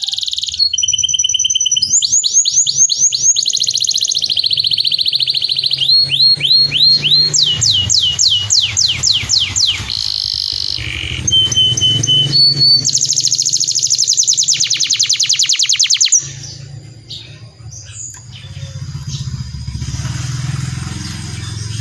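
Domestic canary singing a long rolling song: fast trills and runs of rapidly repeated notes, phrase after phrase without a break. About three quarters of the way through the song stops, leaving only a few faint chirps over a low steady hum.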